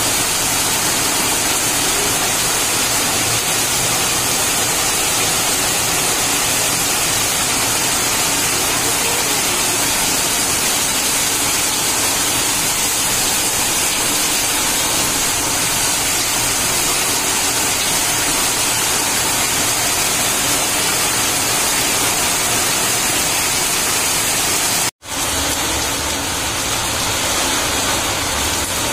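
Heavy rain pouring onto a flooded concrete terrace: a steady, dense hiss of drops splashing on standing water. About 25 seconds in the sound drops out for an instant, then resumes slightly quieter.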